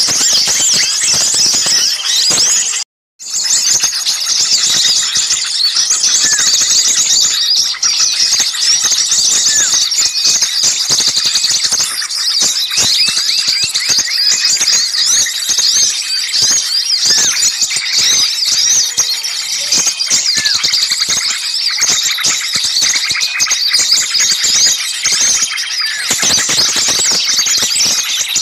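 Dense, loud chorus of many small songbirds chirping and twittering excitedly over one another, the agitated mixed-flock calling used as a bird-luring recording. The sound drops out for a moment about three seconds in.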